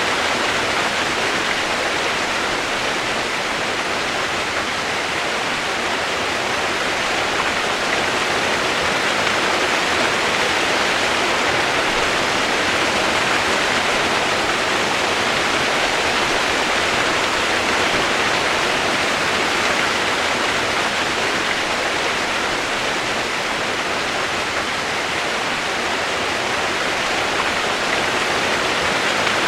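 Steady rushing water, an even unbroken wash with no changes or separate sounds.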